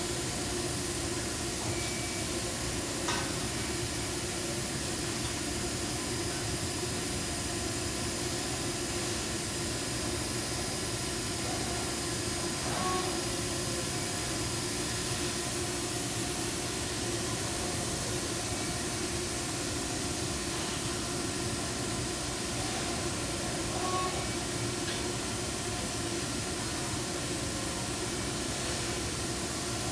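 Steady machine hum and hiss from a running Amada HG 1303 robotic press brake cell, with several steady tones and a few faint clicks.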